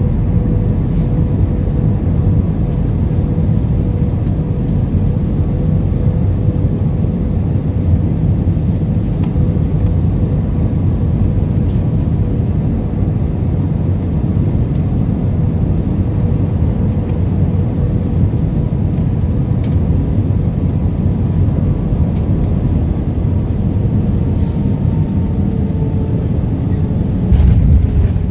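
Airbus A320 cabin noise: a steady, loud rumble of jet engines and airflow with a thin steady engine whine. The whine dips slightly in pitch after about 24 seconds, and the rumble grows louder near the end.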